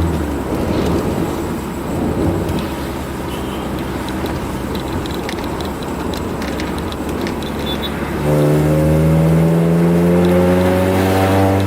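Honda F22B1 2.2-litre SOHC VTEC four-cylinder with a leaking exhaust: running light and off the throttle for most of the time, then pulling under acceleration from about eight seconds in, its note climbing steadily in pitch and getting louder.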